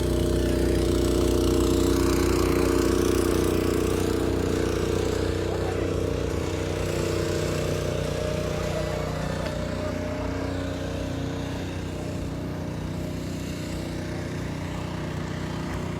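A motor vehicle engine running steadily at idle nearby, its hum growing gradually fainter after about halfway.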